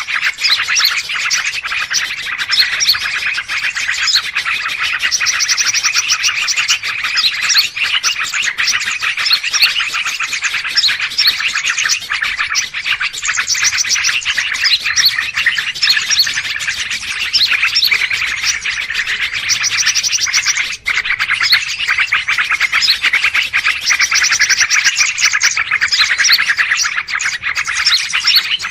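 Many small birds chirping and trilling at once in a dense, continuous chatter, with bursts of fast repeated-note trills now and then. It is a noisy bird-call recording of the kind played to lure wild birds.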